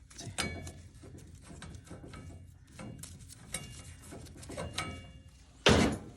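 Metal hand tools working on boiler pipe fittings: irregular knocks and scrapes, several with a brief metallic ring, and a louder, harsher burst of noise near the end.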